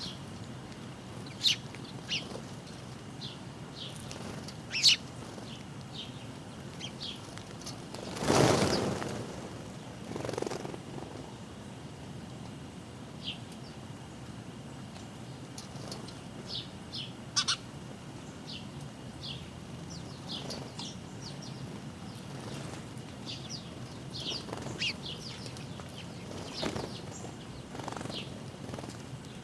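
Small backyard birds giving short, high chirps at irregular intervals, over a faint steady high tone. About eight seconds in comes a louder rushing noise lasting about a second, with a weaker one shortly after.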